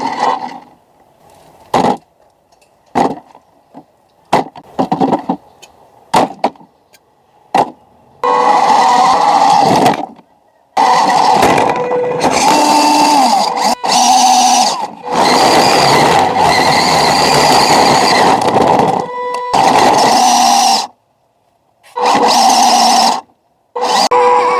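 A few sharp clicks and knocks, then from about eight seconds in the whine of radio-controlled model trucks' electric motors and gearing, rising and falling in pitch and stopping and starting abruptly several times.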